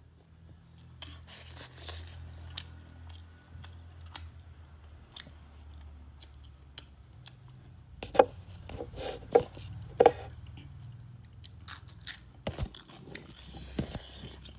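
A person eating rice and curry by hand, heard close up: chewing, small wet clicks of the mouth and crunchy bites, with the loudest crunches about eight and ten seconds in.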